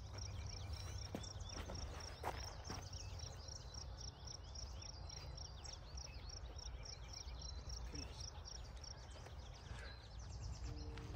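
Outdoor ambience: a bird repeats a short high chirp about three or four times a second, stopping a couple of seconds before the end, with other scattered bird calls over a low wind rumble.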